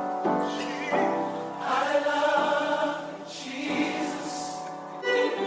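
A choir singing with musical accompaniment, several voices holding long sung notes.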